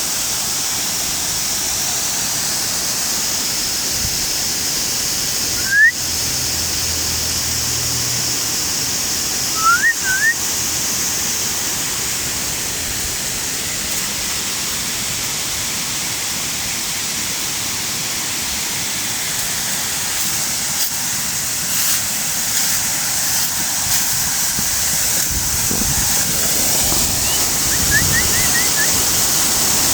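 Waterfall: a steady rush of falling water. A few short rising chirps come through it, near the start, about a third of the way in and near the end.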